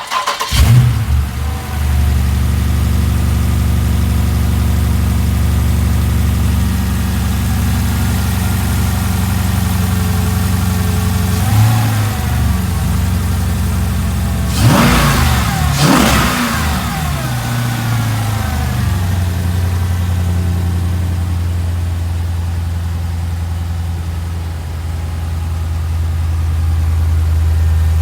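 Jeep Grand Cherokee SRT8's 6.4-litre HEMI V8 starting right at the start, then idling. It is revved briefly once around 12 seconds in and twice more sharply about 15 and 16 seconds in, then settles back to a steady idle.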